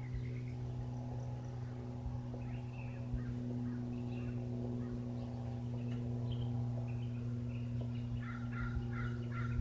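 Steady low drone of a light propeller aircraft's piston engine, a Cessna flying overhead. Scattered bird calls sound over it, and near the end a crow caws about four times in a row.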